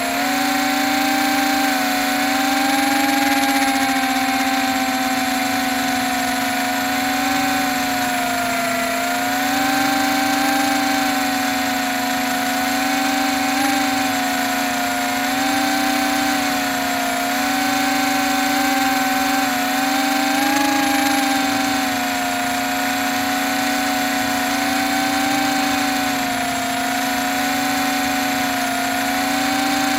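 HBx quadcopter's small electric motors and propellers buzzing in flight, the pitch drifting up and down every few seconds as the motors change speed. The quad is flying roughly on a bad motor and a loose arm after being chewed by a dog.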